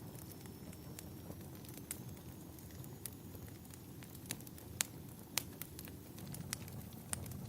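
Wood fire crackling in a fireplace: irregular sharp pops and snaps, the two loudest about halfway through, over a steady low rumble.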